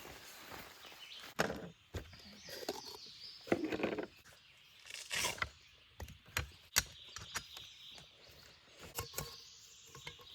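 Irregular crunching and knocking sounds, with birds chirping faintly.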